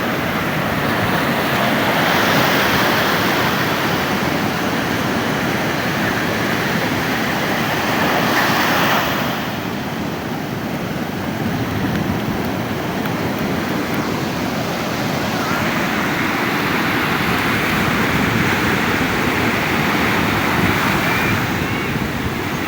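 Ocean surf breaking and washing up the beach, a continuous rush that swells and eases, loudest about two seconds and again about eight seconds in.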